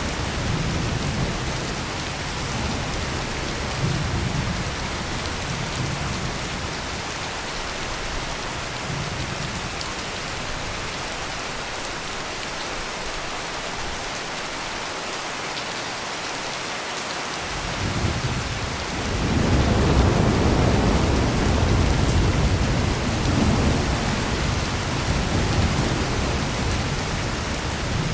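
Heavy rain pouring steadily, with low rolling thunder that fades away over the first several seconds. A new roll of thunder swells about two-thirds of the way through and keeps rumbling.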